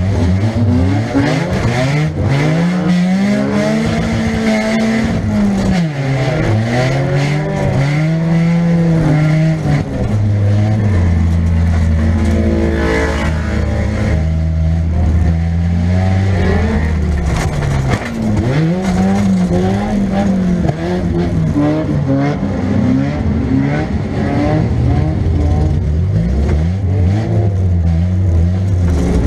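Heard from inside the cabin, a 1998 Nissan Pulsar's 1.8-litre four-cylinder engine revs up and down again and again in short bursts, with a steadier held stretch in the middle. Scattered knocks and thumps are heard over the engine.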